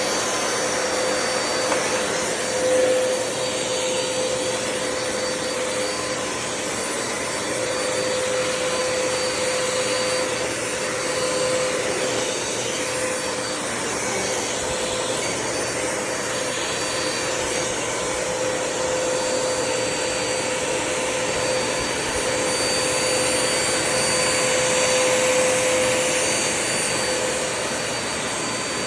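Vacuum cleaner running steadily: a constant rushing noise with a steady whine, growing slightly louder near the end.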